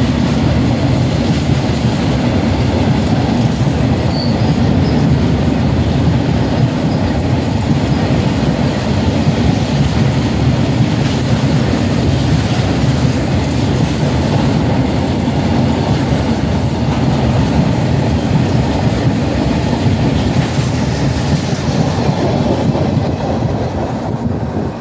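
A long rake of covered goods wagons passing close alongside on the next track: a steady loud rumble and rattle of freight wagon wheels clattering over the rail joints, with a few faint high wheel squeals. It eases off near the end as the brake van goes by.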